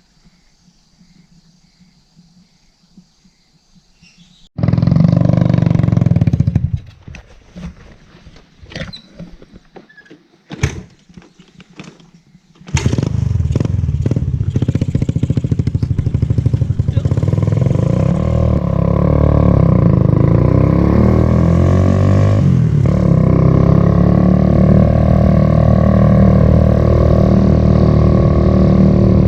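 Motorcycle engine running steadily while riding, loud and continuous from about halfway in, after a short loud burst and a few knocks.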